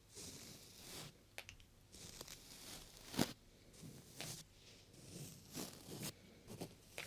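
Close-up rubbing and brushing on the ears of a 3Dio binaural microphone: short scratchy swishes with sharp taps, one clearly louder about three seconds in.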